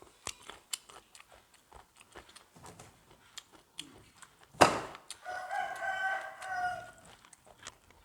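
A rooster crows once, a held call of about two seconds that follows a sharp knock about four and a half seconds in; soft scattered clicks fill the rest.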